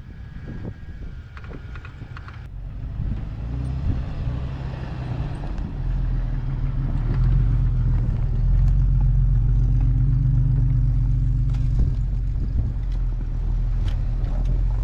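Vehicle engine running steadily while driving, a low drone that grows louder about six seconds in and then holds.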